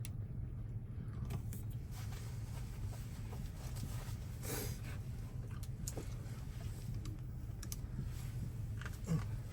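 Scattered light clicks and taps over a low steady hum, with a sharper knock just before the end.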